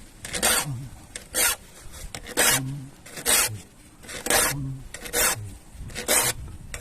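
Saw file rasping across the teeth of a hand saw during sharpening, seven short, even strokes at about one a second.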